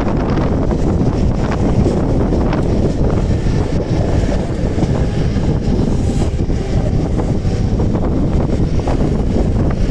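Wind buffeting the microphone at the open doorway of a moving Mumbai local EMU train, over the steady rumble of the train running along the track.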